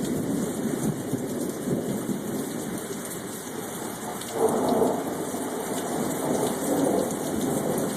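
Steady rain with thunder rumbling, swelling louder about halfway through and again briefly near the end.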